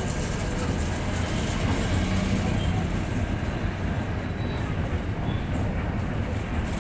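Steady diesel engine hum and road rumble inside a TNSTC deluxe bus cabin on the move.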